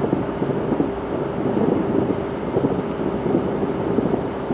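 Fireworks display heard from about 2.8 km away: the far-off bursts merge into a continuous low rumble, with a steady hum running under it.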